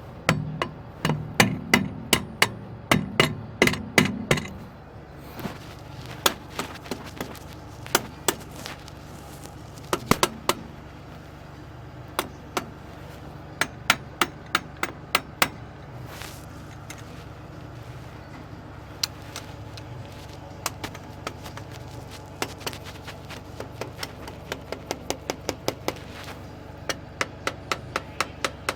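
Hammer blows on metal, struck in runs of several quick strikes with short pauses between. A steady low hum runs underneath.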